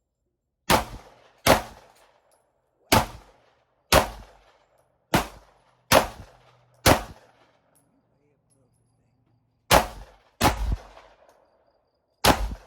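Ten pistol shots from a 9mm handgun, fired one at a time at an uneven pace, each with a short echo. Seven come in the first seven seconds, then after a pause of nearly three seconds three more follow.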